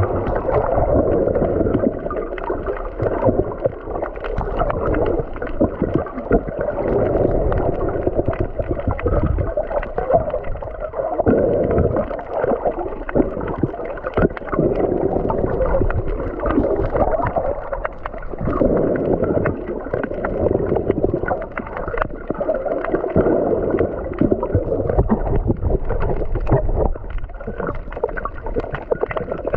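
Muffled water movement heard underwater: a gurgling wash that swells and fades every few seconds, with scattered small clicks.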